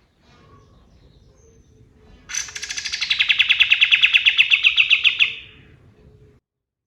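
Male kapas tembak (katem) songbird singing one long, rapid trill. It starts about two seconds in, begins high, drops and then holds steady for about three seconds before fading. The audio cuts off shortly after.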